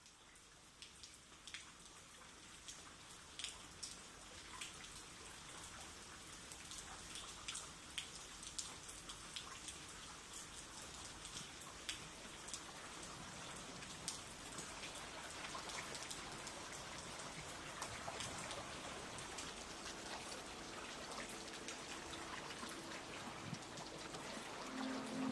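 Rain falling, a steady patter with many individual drop taps, growing gradually louder as it fades in. Near the end, faint sustained notes of music begin under the rain.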